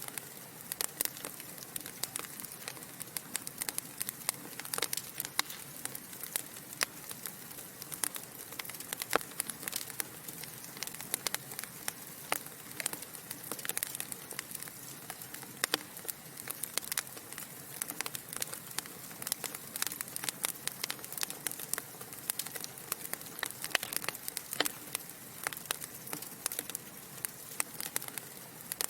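Wood fire of burning logs in a fireplace crackling, with many sharp irregular pops and snaps over a soft steady hiss.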